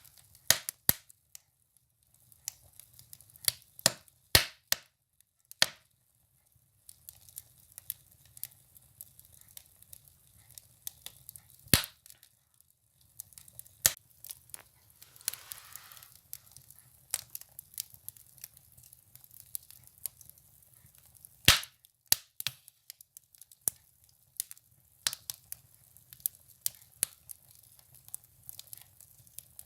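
Firewood burning in a stove, crackling with irregular sharp pops and snaps, a few of them much louder than the rest. A brief soft hiss rises from the fire about halfway through.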